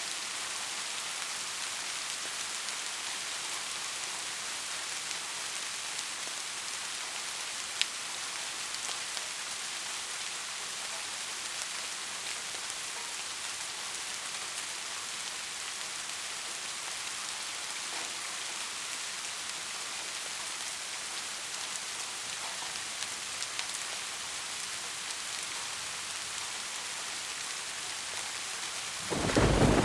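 Steady heavy rain, an even hiss. Just before the end, a loud thunderclap breaks in suddenly.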